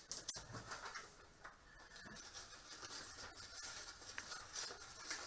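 Faint, irregular rustling with a few light clicks and knocks: small objects or papers being handled.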